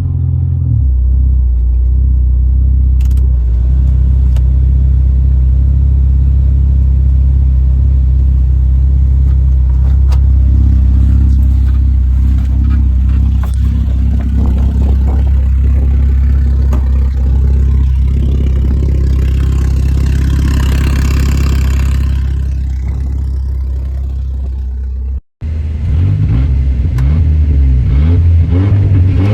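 Volvo 740 engine running steadily just after a cold start, with a few seconds of hiss over it about two-thirds of the way in. The sound cuts out for an instant near the end and comes back rougher and more uneven.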